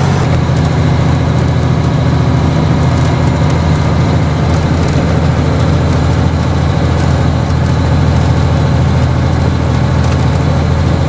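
Mack truck's diesel engine running steadily under way with a low, even drone, heard from inside the cab along with road noise.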